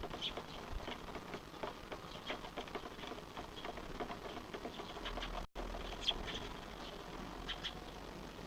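Small birds giving faint, short high chirps now and then over a soft background of ticking and pattering. The sound drops out for an instant just after the middle.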